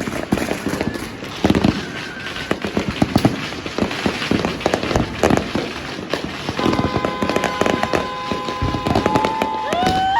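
Fireworks and firecrackers going off densely, many bangs and pops overlapping in an irregular stream. In the last few seconds a steady high tone and rising whistles sound over the bangs.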